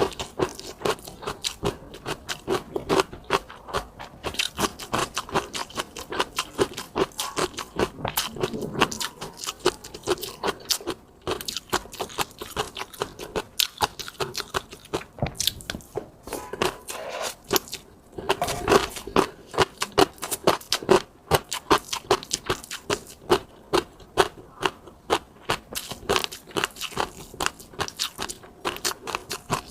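Close-miked eating: a person chewing with a quick, irregular run of sharp wet clicks and crunchy mouth sounds, several a second, with a couple of fuller, denser stretches.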